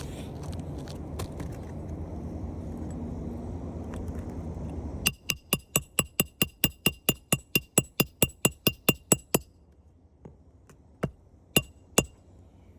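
A steady low rumble, then a hammer striking in a fast, even run of sharp ringing blows, about five a second for roughly four seconds, followed by three single blows near the end: roofing work on asphalt shingles.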